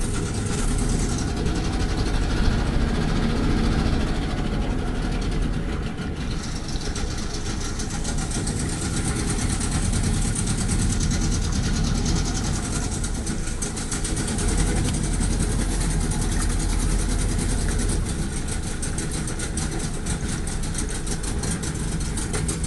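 Glass-bottom boat's engine running steadily.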